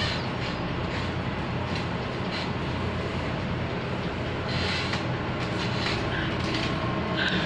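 Steady, train-like rumble with a low hum, heard aboard a ship lying at anchor, with brief higher rattles now and then. This is the strange noise that comes while the ship is anchored.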